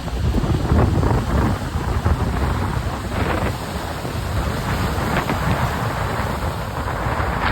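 Stormy sea surf: waves breaking and washing in, surging several times, under heavy gusty wind noise on the microphone.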